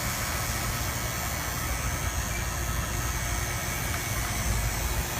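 Robinair 5 CFM refrigeration vacuum pump running steadily, evacuating a refrigeration system after a filter drier replacement, with the micron reading pulling down fast.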